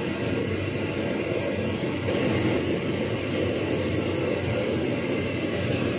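Shredded potatoes frying in oil in a wok on a camping stove: a steady sizzle together with the stove's flame.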